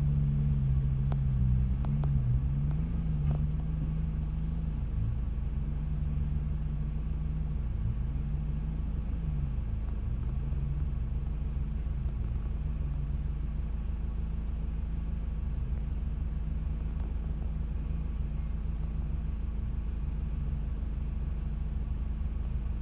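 Four-wheel-drive vehicle's engine running at low revs, its pitch slowly rising and falling, over a steady deep rumble.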